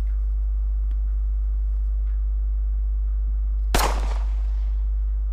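A loud, steady low electronic hum from the film's soundtrack, with a single sharp bang like a gunshot about three and a half seconds in that rings on briefly; the hum starts fading near the end.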